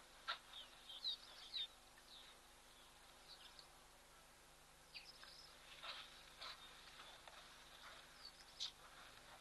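Faint outdoor ambience with scattered short, high bird chirps and a few brief sharper sounds over a low hiss.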